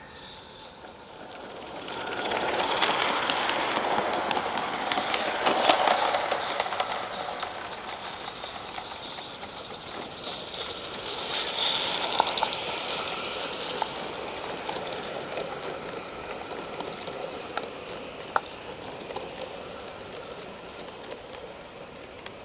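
Live-steam garden-scale locomotive and its train running past on the track, steam hissing with wheels rattling on the rails. It comes up quickly about two seconds in, swells again around the middle, then fades away, with two sharp clicks late on.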